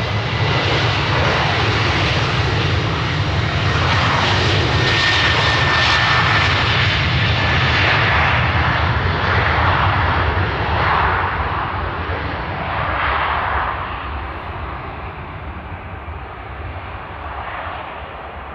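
Jet airliner's engines at high power as a departing Jet2 plane goes by: a loud roar that builds and then slowly fades as it moves away, with a thin high whine that drops slightly in pitch.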